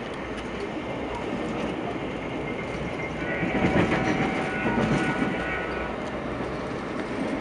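Interior running noise of a VIA Rail passenger train at speed: a steady rumble and rail hiss. About halfway through, several steady overlapping high tones sound for roughly three seconds over the rumble.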